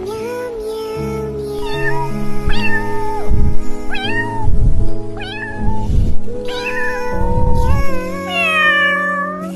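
Kitten meowing repeatedly over background music with a steady drum beat; the meows come as short rising-and-falling calls, with a longer, falling meow near the end.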